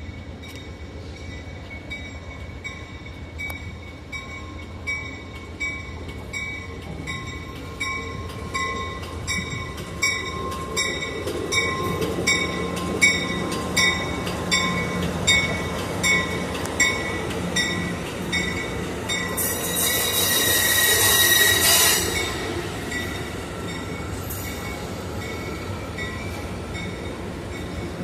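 A train's locomotive bell ringing at an even pace, about one strike a second, growing louder as the train draws near and then fading, over the steady hum of the locomotive. Near the middle there is a loud high squeal of wheels on the rail lasting a couple of seconds.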